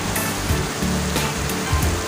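Heavy rain pouring down in a steady rushing hiss, with music carrying a bass line and a beat playing over it.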